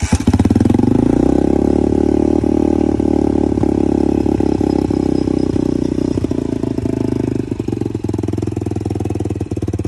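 150cc single-cylinder dirt bike engine firing up and running at a steady fast idle on a newly fitted Nibbi carburetor with the choke down. It catches abruptly, picks up slightly in the first second or two, then holds steady before dropping a little near the end.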